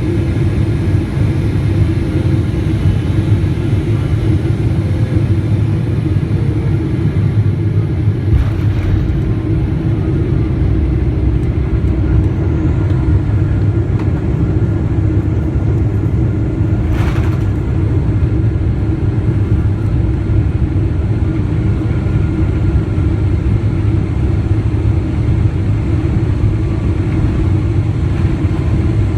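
Steady low rumble of engines and airflow inside a Boeing 777-300ER's cabin. The deepest part of the rumble grows stronger about eight seconds in, and a brief hiss passes about seventeen seconds in.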